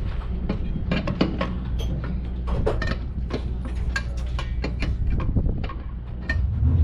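A vehicle engine runs with a low, steady hum under many irregular clicks and rattles. Near the end the engine gets louder.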